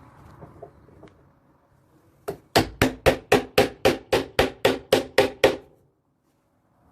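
A quick, even run of about a dozen sharp hammer blows on solid wood, roughly four a second, starting a couple of seconds in and stopping about a second before the end. The blows knock apart the joints of a nail-free live-edge slab TV stand.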